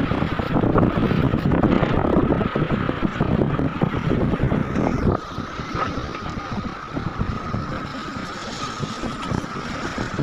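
Heavy diesel mining machinery running, with a steady high whine over a dense rumble and wind buffeting the microphone; the level drops about halfway through.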